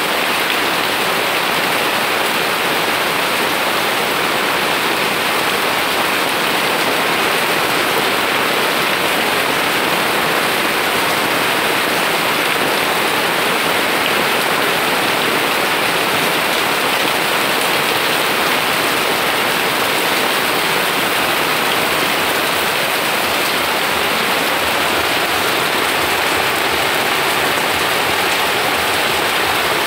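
Steady rain falling on garden plants: a constant, even hiss with no breaks.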